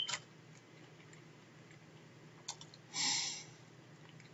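Mouth clicks and smacks of a man chewing a large roast-beef sandwich, a few sharp clicks at the start and about two and a half seconds in, with a short louder burst of noise about three seconds in.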